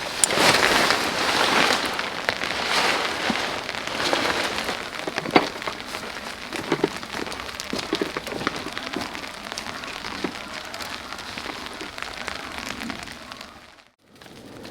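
Steady rain falling, with many separate drops striking close by over a hiss that swells and eases; it cuts out suddenly near the end.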